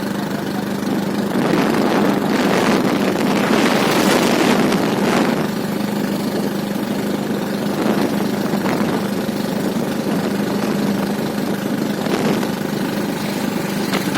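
An engine running steadily with a constant low hum, and a louder rushing noise swelling between about one and five seconds in.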